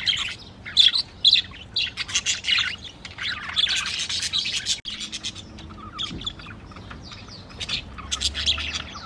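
A group of budgies (parakeets) chattering: quick, overlapping chirps and warbles, busiest in the first half and sparser after about five seconds.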